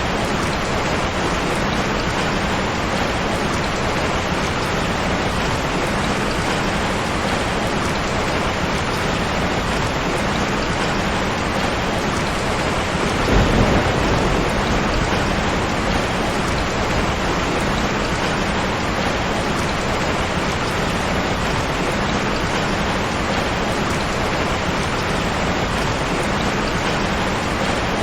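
Steady heavy rain, an even hiss of falling water, with a short low rumble swelling up about halfway through.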